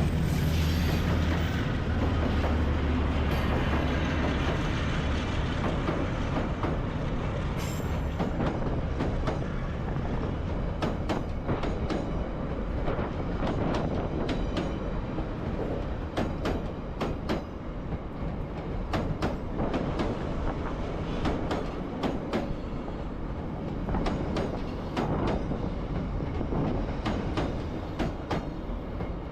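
A diesel freight or passenger train rolling past. The locomotive's low engine drone fades over the first few seconds, then the wagons' wheels click and clack over the rail joints.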